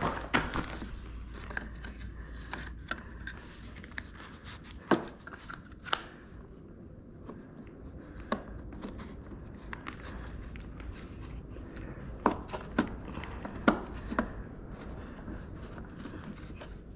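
Scattered clicks, taps and knocks of hands handling and fitting parts on a lawn mower during reassembly, irregular and a few seconds apart.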